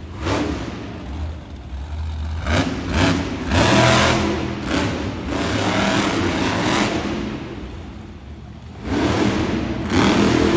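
Monster truck engine revving in repeated surges during a freestyle run. It eases off briefly, then opens up again about nine seconds in.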